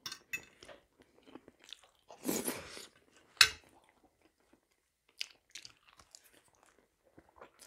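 A person eating close to a lapel microphone: soft chewing and small mouth clicks, with a louder noisy sound a little over two seconds in and a single sharp knock about three and a half seconds in.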